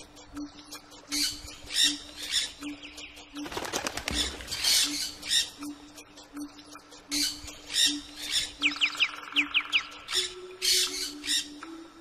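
Birds squawking and calling over a short low note that repeats about every three-quarters of a second. A quick run of falling chirps comes about two-thirds of the way through.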